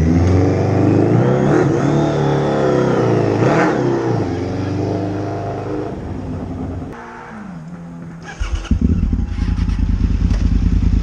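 Motorcycle engine pulling and easing off, its pitch rising and falling as it revs. About eight seconds in there is a cut to a motorcycle engine running steadily up close, with an even, rapid firing beat.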